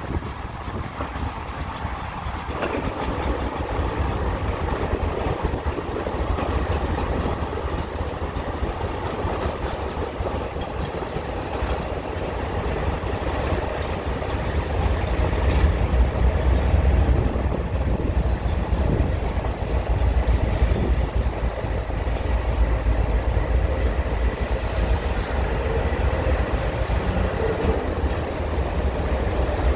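CSX freight train's diesel-electric locomotives passing, with a deep engine rumble that swells about halfway through. Near the end the loaded coal hopper cars begin rolling by.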